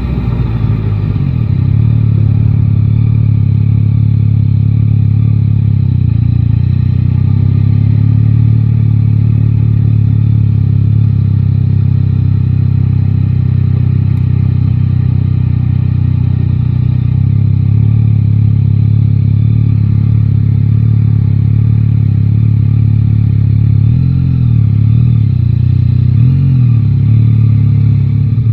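Yamaha Tracer 9 GT's three-cylinder engine running at a steady pitch under cruising throttle. In the last few seconds the pitch dips and rises a few times as the throttle changes.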